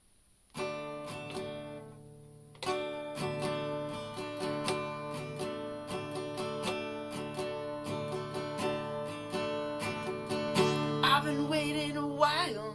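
Acoustic guitar strumming a song intro: one chord rings out first, then steady rhythmic strumming starts a couple of seconds later. A singing voice comes in near the end.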